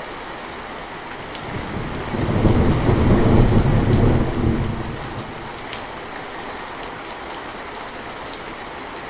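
Steady rain falling, with scattered sharp drips. A low rumble of thunder swells about two seconds in and fades away a few seconds later.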